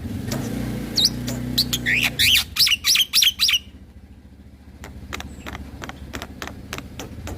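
Black-winged myna (jalak putih) singing: a run of quick rising whistled notes, then a fast dry clicking chatter. A low buzzing hum sits under the first two seconds.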